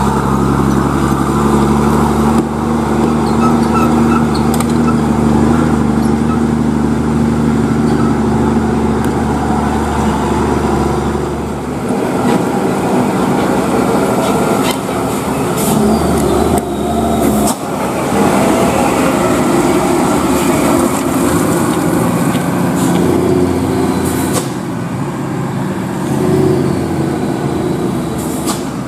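Heavily loaded tronton trucks' diesel engines running loud and steady as they go by, the engine note changing about twelve seconds in, with a few short hisses in the second half.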